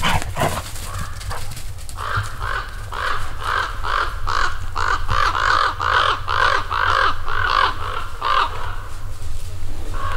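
A bird calling in a long, even series of about sixteen harsh notes, roughly two to three a second, starting about two seconds in and stopping shortly before the end.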